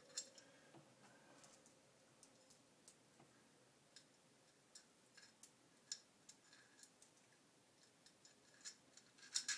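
Scattered light clicks and taps of metal parts being handled as an angle bracket is worked into an aluminum extrusion rail, with a short cluster of louder clicks near the end.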